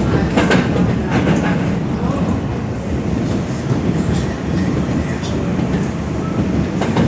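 R142 subway car running on the rails, heard from inside: a steady low rumble of wheels on track, with a run of clicks over rail joints in the first second or so. A thin, high steady whine comes in about two seconds in.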